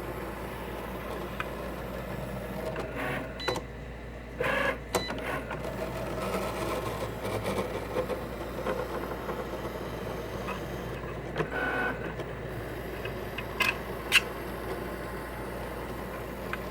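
Cricut Explore Air 2 cutting machine running, its motors driving the carriage with a steady whir broken by short scratching, crunching bursts and clicks. The scratching and crunching is the abnormal noise the owner is trying to show.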